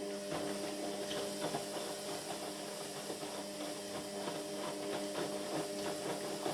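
Indesit MyTime washing machine running mid-cycle: a steady mechanical hum with fast, irregular clicking and rattling over it.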